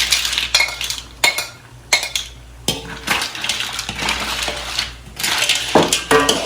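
Mussel shells clattering against each other and the metal pot as they are tipped in and moved around, an irregular run of sharp clinks and knocks.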